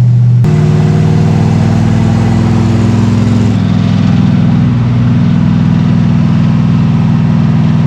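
1956 Chevrolet Bel Air's swapped-in V8 engine running under load while the car is driven, heard from inside the car. The engine note shifts in pitch about half a second in and again around the middle.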